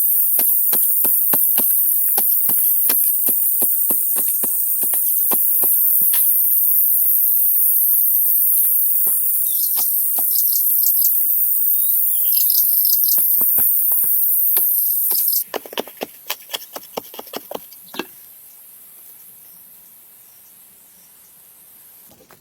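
A steady, high-pitched insect chorus over a quick run of hand-tool chopping strokes on wood, about two or three a second. The insect sound cuts off suddenly about two-thirds of the way through, and the strokes stop a couple of seconds later.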